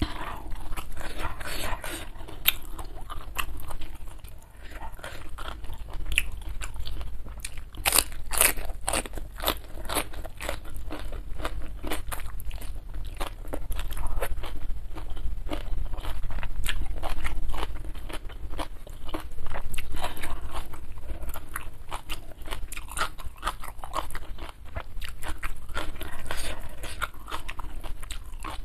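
Close-up chewing of crisp raw vegetables, a steady run of crunches from bites and chewing that thickens about a third of the way in.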